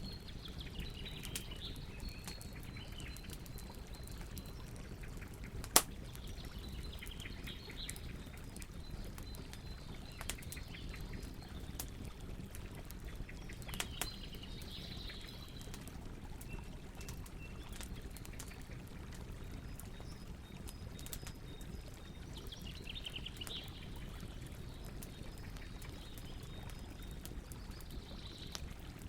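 Campfire burning with a steady low rush and scattered crackles, one sharp loud pop about six seconds in and a smaller one near the middle. Birds sing in short chirping phrases every few seconds behind the fire.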